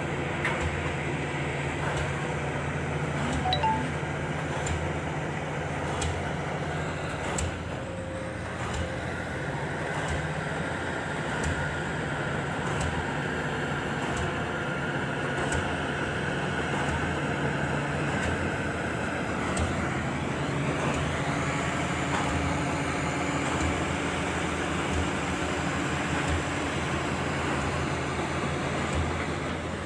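Excavator's diesel engine running with a steady low drone, and a higher tone sliding in pitch about twenty seconds in.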